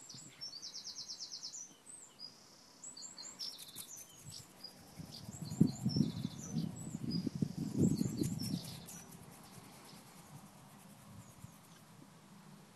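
Small birds chirping, with a fast trill of about eight notes a second near the start and scattered short chirps after it. About five seconds in comes a few seconds of low rumbling and bumping close to the microphone, the loudest part, which then dies away.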